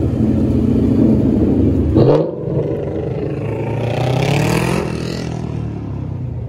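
Car engine idling and being revved: a quick blip about two seconds in, then a longer rev climbing in pitch that drops back to idle about five seconds in.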